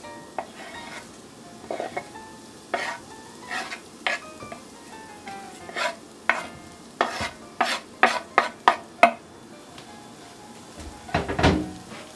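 Beef being stir-fried in an oiled frying pan, sizzling, while a utensil stirs and scrapes the pan in a series of short strokes that come quicker in the middle, with a louder clatter of stirring near the end.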